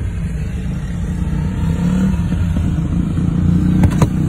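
Car engine running, heard from inside the cabin as a steady low hum. A few sharp clicks come near the end.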